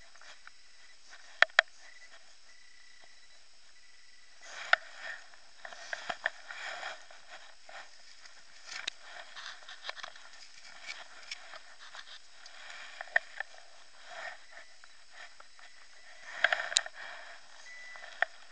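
Rustling and scraping of digging out a metal-detector target in wet ground, in irregular clusters with scattered sharp clicks. A faint steady high tone sounds at the start and again near the end.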